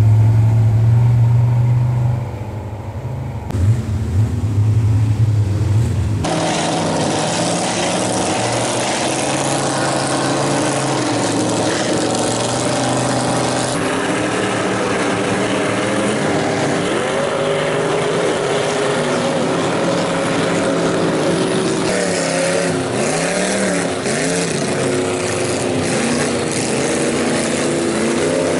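Lifted mud truck engines revving hard in a mud bog, pitch rising and falling as the throttle is worked and the wheels spin. There is an abrupt change in the sound about six seconds in.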